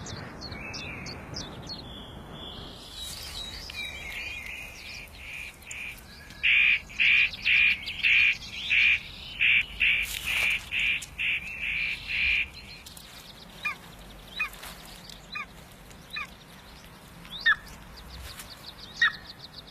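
A bird calling over and over, about two loud calls a second for some six seconds, then fainter short chirps scattered through the rest.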